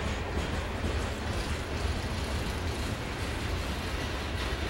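Covered hopper cars of a freight grain train rolling past: a steady rumble of steel wheels on the rails.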